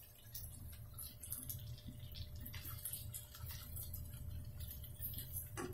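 Chicken and potato curry frying in oil in a steel kadai, sizzling faintly with scattered small crackles and pops, while a ladle stirs it.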